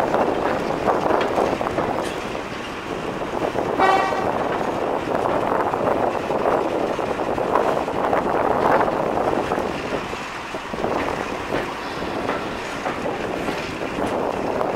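Passenger train running, heard from an open coach window: the steady rumble and rattle of the coach on the track. About four seconds in, the locomotive's horn gives one short toot.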